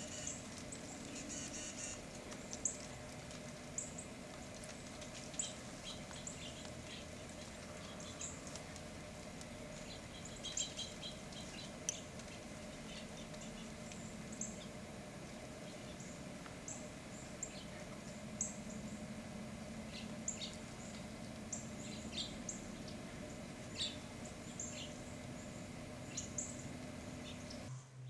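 Small birds giving short, high chirps, one or two at a time and scattered irregularly, over a steady low hum.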